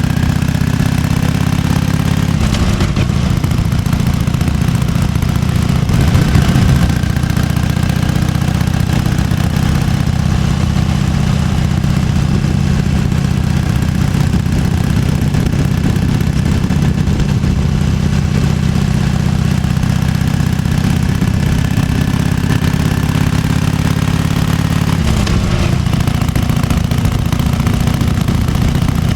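1998 Harley-Davidson Fat Boy's 1340 cc Evolution V-twin idling with its uneven 'potato-potato' beat. Its pitch shifts briefly and it gets a little louder about six seconds in, and it shifts again near the end.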